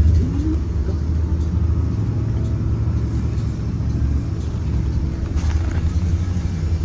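Blue Bird Vision school bus running, a steady low rumble of engine and road noise.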